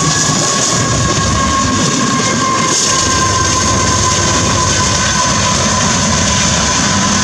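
Union Pacific diesel locomotives hauling a freight train past at close range: steady running noise of engines and wheels on rail, with a steady high whine over it.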